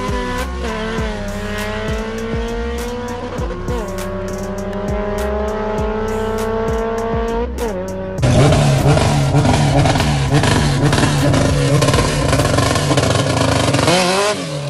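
Drag-race car engines accelerating hard through the gears: the pitch climbs and drops at each upshift, about a second in, at about four seconds and near eight seconds. Then the sound changes abruptly to a louder engine revving hard close by, rough and crackling, which falls away near the end.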